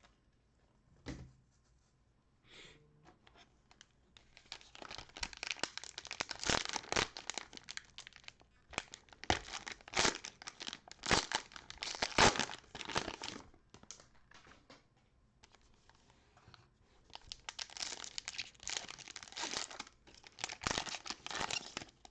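Plastic cello trading-card pack wrappers being torn open and crinkled, a faint knock first, then two long stretches of crackling with a short lull between.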